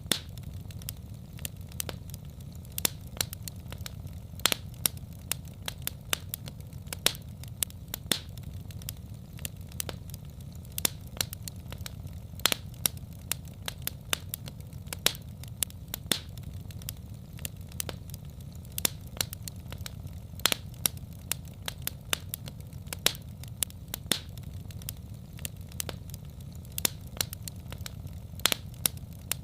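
Wood fire in a fireplace crackling: irregular sharp pops and snaps, often several a second, over a steady low rumble.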